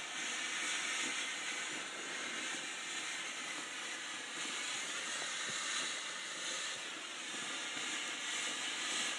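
A firework burning with a steady hiss, spraying sparks.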